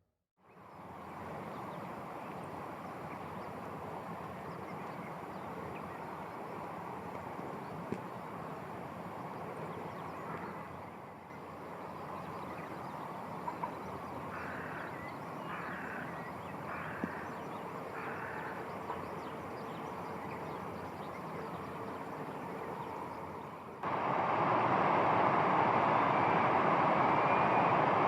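Steady outdoor background noise that changes level at edits between clips. About halfway through come four short duck quacks in a row, about half a second apart.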